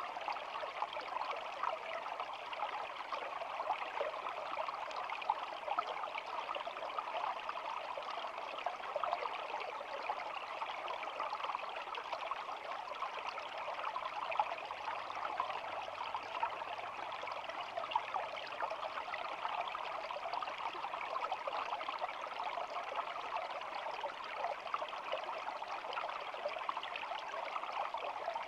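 Shallow stream flowing and babbling steadily: a continuous rush of water full of tiny splashes.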